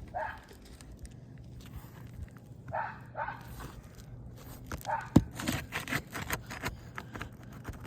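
Scraping and clicking of tools on asphalt shingles as roofing nails are pried out, with a sharp knock about five seconds in.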